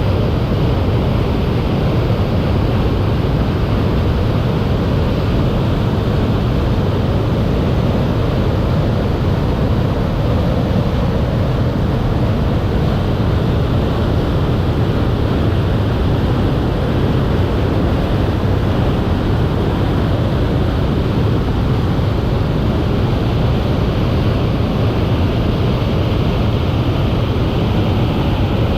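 Waterfall swollen by heavy rain, pouring with a loud, steady, unbroken rush of water.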